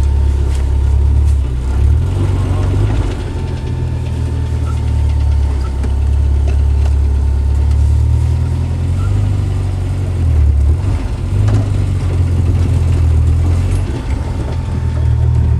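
A 1990 Jeep Wrangler's 2.5-litre four-cylinder engine running while driving, its pitch rising and falling several times as the throttle changes.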